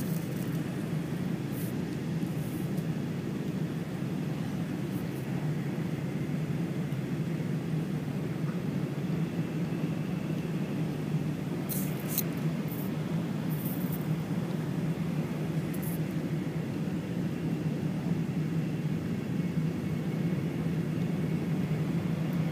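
Interior running noise of an E4 series Shinkansen heard from inside the passenger cabin: a steady low rumble, with a few faint brief ticks.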